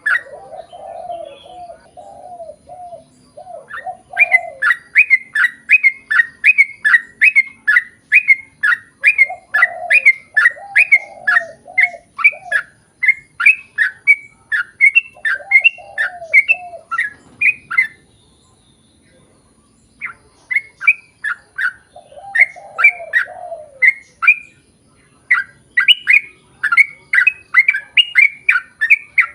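Yellow-vented bulbul (trucukan) singing a long run of quick, repeated chirping notes, several a second, broken by a pause of about two seconds past the middle. A lower warbling phrase comes and goes underneath.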